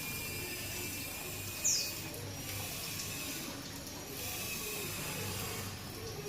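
A small parrot gives one short, high chirp falling in pitch about one and a half seconds in, with perhaps a fainter chirp later, over a steady background hiss.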